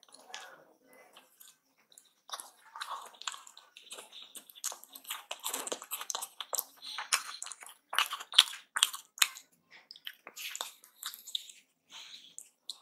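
Close-miked chewing of aloo paratha: quick, wet mouth clicks and smacks, thickest in the middle stretch and thinning toward the end.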